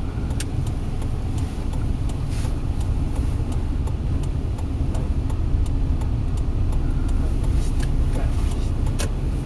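Steady low rumble of a car's engine and road noise heard inside the cabin, with a few faint ticks.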